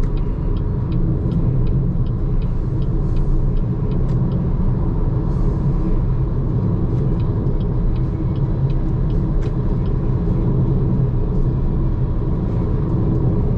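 Steady low road and tyre rumble heard inside the cabin of a BYD Seagull electric car at expressway speed, with no engine note. A run of light, quick, regular ticks sounds over the first few seconds and again in the middle.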